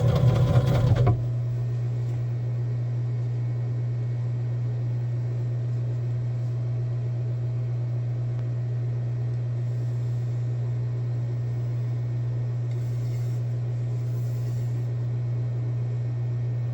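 A loud machine noise cuts off about a second in, leaving a steady low hum.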